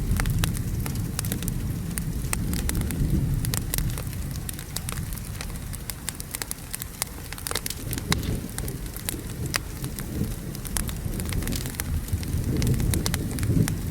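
Wood fire crackling with many sharp pops, over steady rain and a low rumble of thunder. The rumble eases in the middle and swells again near the end.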